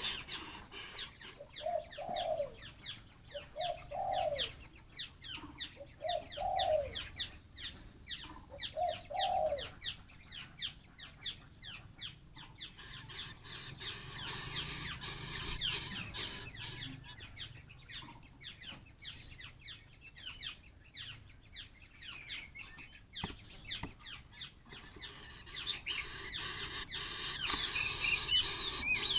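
Birds calling: a short rising-and-falling note repeated about every two seconds for the first ten seconds, with quick high chirps and clicks throughout and livelier chirping near the end.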